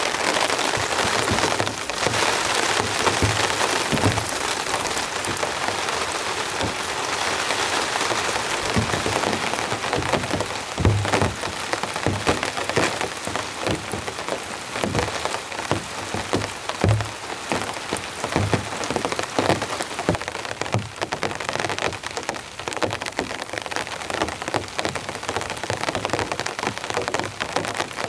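Heavy, steady rain pattering on a tarp and tent, with water pouring off the tarp's edges. Scattered heavy drops land with dull thuds, mostly in the middle of the stretch.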